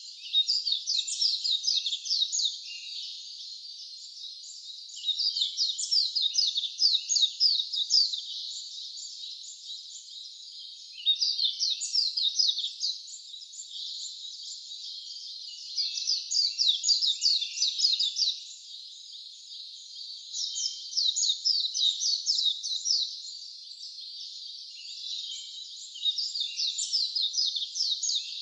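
A songbird singing a trilled phrase of rapid, quick high notes about every five seconds, six times, over a steady high hiss.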